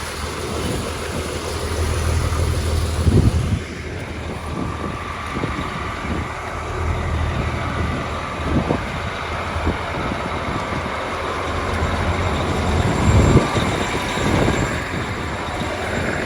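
Farm tractor's diesel engine running at a low, steady hum that swells and fades, with knocks and rattles now and then, the loudest a few seconds in and again near the end.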